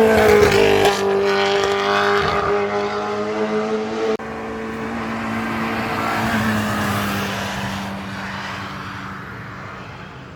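Historic racing car passing at speed, its engine note loud and dropping slightly in pitch as it goes by. The sound breaks sharply about four seconds in, and an engine keeps running and fades away toward the end.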